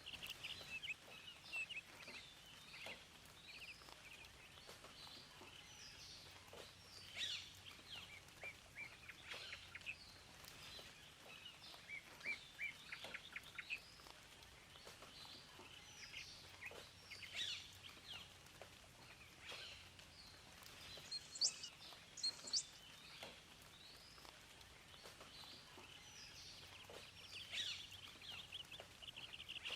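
Several songbirds singing and calling over one another, in overlapping chirps and rapid trills, with two sharp high whistled notes a little past the middle.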